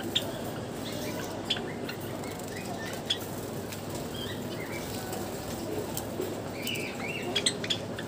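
Java sparrows bathing at a water bowl: wing flutters at the water, with scattered short sharp chirps and clicks, more of them near the end.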